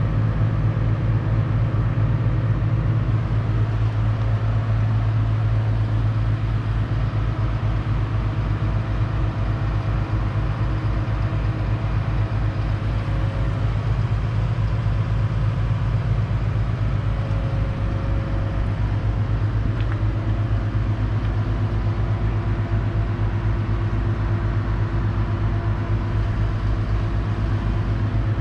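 A 2005 Claas Ares 656 RZ tractor's 6.8-litre six-cylinder diesel engine running at a steady speed, with an even low pulse and hum.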